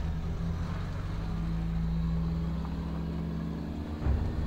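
Engine of an open-top vintage car running steadily as the car drives away. The low hum changes about four seconds in.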